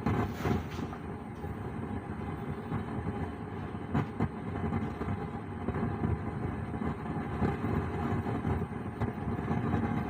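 Stranger PBT701 700-watt amplifier putting out a continuous rumbling, crackling noise through its speaker, with a few sharper clicks about half a second and four seconds in. The noise comes even with the volume turned to zero: a fault in the amplifier.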